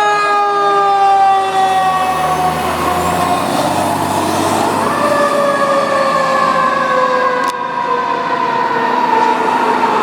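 Fire truck siren wailing with a slowly falling pitch, starting a new sweep from higher about five seconds in and falling again, with a truck engine rumbling low underneath in the first few seconds.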